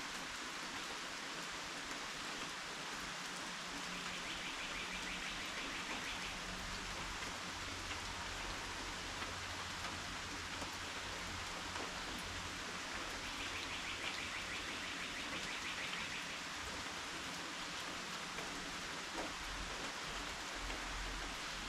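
Steady rain falling. A faint, high, rapid trill comes twice, about four seconds in and again about fourteen seconds in.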